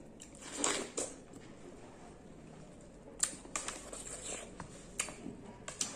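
Close-miked bites and chewing of juicy watermelon: a longer wet bite near the start, then several sharp, crisp clicks of bites and chewing.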